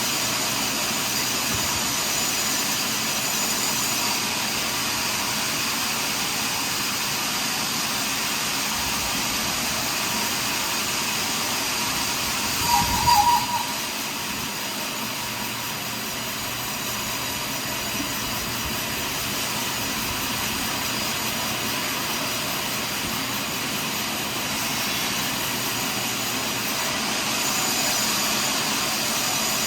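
Portable sawmill running steadily while sawing a large pine log. About halfway through, a brief high-pitched sound rises above the machine noise.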